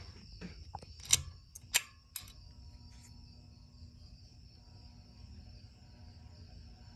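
Three clicks of a ceiling fan's pull-chain speed switch about a second in, then the Hampton Bay Huntington II ceiling fan's motor starting on low speed with a faint steady hum.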